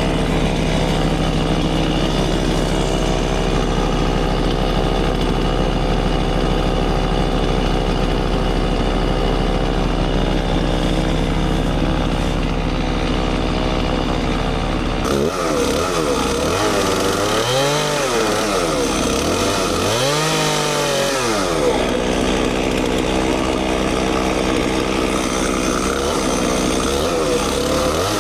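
Gasoline chainsaw engine running steadily. About halfway through, its pitch begins to swing down and back up several times, as the engine speed dips and recovers while cutting into the trunk of a poplar being felled.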